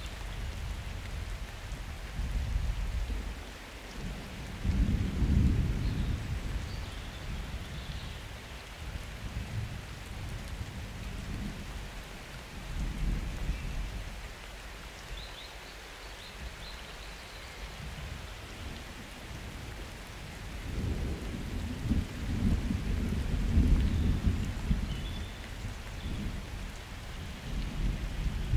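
Steady summer rain with rolling thunder: a deep rumble about five seconds in, and a longer, louder rumble from about twenty seconds in to near the end.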